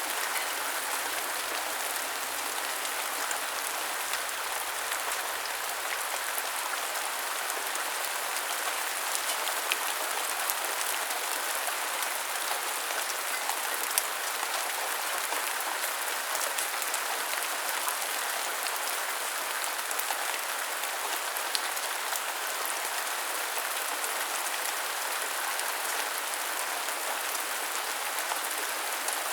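Steady rain falling: an even, constant hiss with scattered sharper ticks of individual drops.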